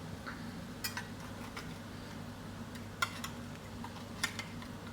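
A few short, sharp clicks of a utensil against a frying pan as halloumi slices are turned, over a steady low hum.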